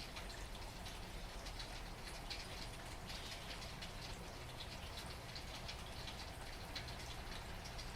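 Steady rain falling, with many close drops pattering on a surface over an even wash of rain and a low steady rumble underneath.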